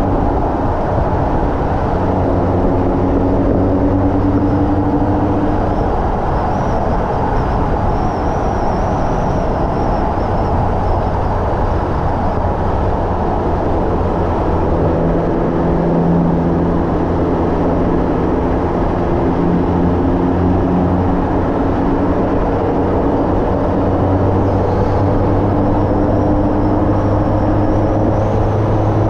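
Hyundai Elantra N's turbocharged 2.0-litre four-cylinder running hard at track speed, its engine note climbing slowly through long pulls, over heavy road and wind noise.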